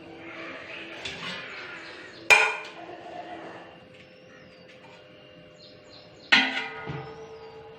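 A spoon knocking against a bowl twice, about four seconds apart, each a sharp ringing clink, as ginger-garlic paste is tapped off into the spice mix. Softer scraping and stirring comes before the first knock.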